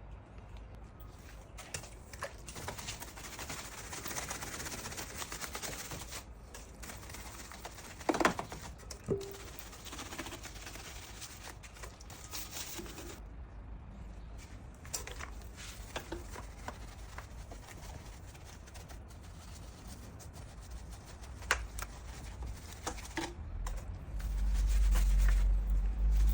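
Scattered clicks and taps, with stretches of spray-like hiss, from hands and tools working over a Honda B-series engine bay as it is cleaned. A low rumble rises near the end.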